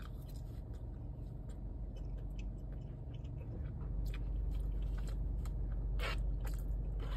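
A person chewing a mouthful of kimchi fries close to the microphone, with small clicks now and then and two louder ones about six seconds in. Under it is a low steady rumble that gets louder about four seconds in.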